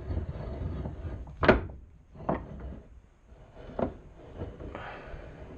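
Woodworking vise being worked by hand: the screw turning with a low rumble, then a few sharp clicks and knocks, the loudest about one and a half seconds in, as the nut on the screw drops and catches. The nut is sticking on fresh paint that has yet to wear off.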